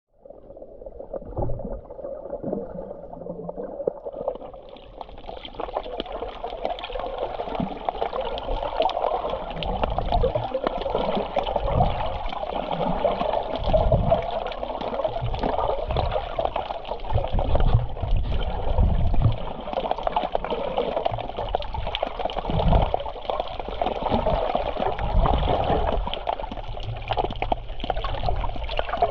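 Black Sea surf washing onto the beach: a steady rush of water with irregular low thumps underneath.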